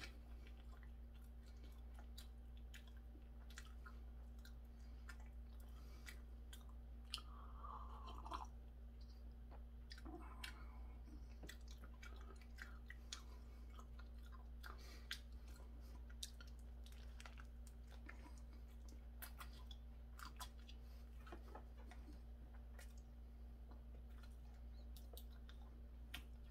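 A person chewing a mouthful of hamburger: soft, scattered mouth clicks and smacks throughout, over a steady low electrical hum.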